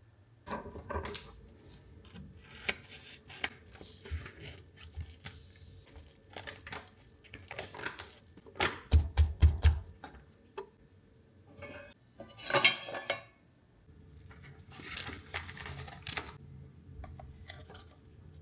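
Kitchen handling sounds: dishes and utensils clinking and knocking, with a quick run of about five heavier knocks about halfway through and a short scraping rustle a few seconds later.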